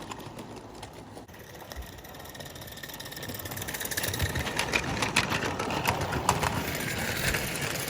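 Mamod Mk III live-steam locomotive running on garden railway track: a hissing chuff with quick clicking, growing louder over a few seconds as it comes closer, then running steadily.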